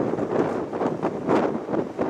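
Freight train of oil tank wagons passing: a steady rumble of steel wheels on rail with irregular clacks, the brightest about a second and a half in, mixed with wind buffeting the microphone.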